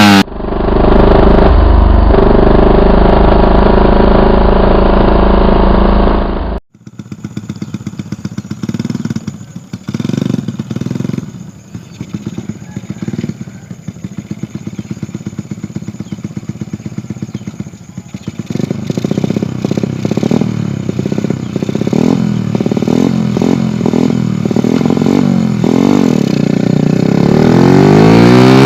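Modified Honda Supra X 100's single-cylinder four-stroke engine through a Kawahara aftermarket exhaust: a steady loud run for the first few seconds, then after a sudden change an even pulsing idle with repeated throttle blips that grow more frequent in the last third.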